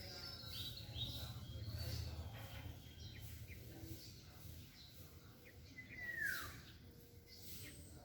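Small birds chirping, with short high notes in the first few seconds, then one louder call sliding down in pitch about six seconds in. A low rumble sits under the first couple of seconds.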